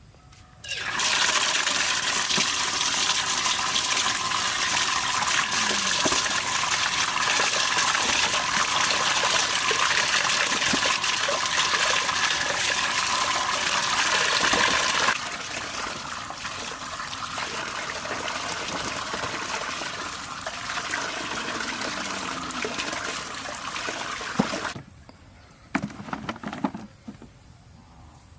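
Water running from a tap, switched on about a second in. The flow eases to a lower rush about halfway through and is shut off near the end, followed by a few light knocks.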